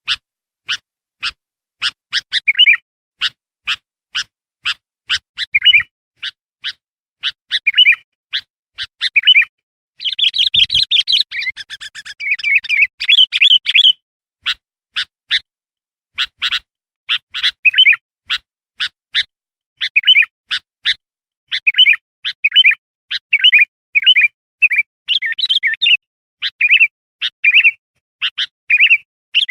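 Bulbul (kutilang) calling: sharp chips repeated about twice a second, alternating with short warbled notes, with a dense run of chattering about a third of the way in.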